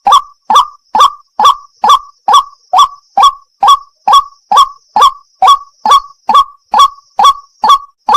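White-breasted waterhen (wak-wak) calling: the same short note repeated in a fast, perfectly even series, a little over two calls a second.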